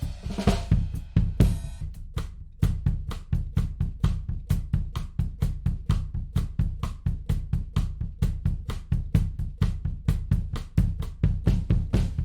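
Recorded drum kit playing a steady groove of kick, snare and cymbals, run through a tape emulation plugin. Around two seconds in the kick briefly drops out, then the full beat comes back.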